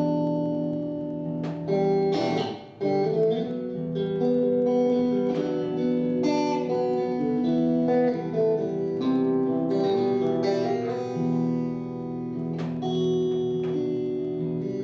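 Acoustic guitar playing the instrumental introduction to a song: strummed chords left to ring, with a brief break about two and a half seconds in.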